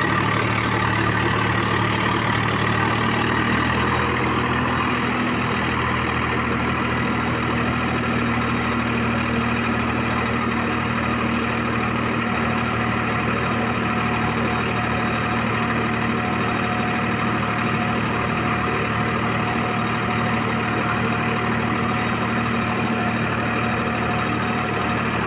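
Tractor engine running steadily under way, a constant low engine note.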